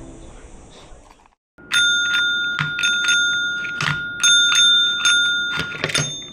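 A small metal bell, bicycle-bell type, rung over and over at about three strikes a second with a steady high ringing tone between strikes. It starts after a short silence about a second and a half in and stops just before the end.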